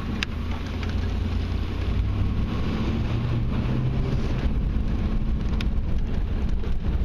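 A GM truck's engine pulls as the truck accelerates, with its pitch climbing and then dropping back about four and a half seconds in as the freshly rebuilt 700R4 automatic transmission upshifts firmly.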